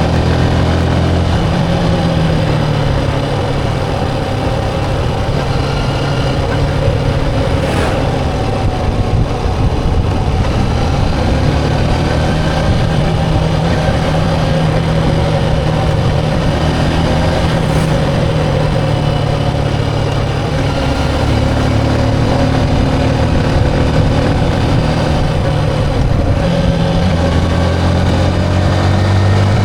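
Motorcycle engine running under way, its pitch shifting up and down several times with changes in speed, over steady road and wind noise.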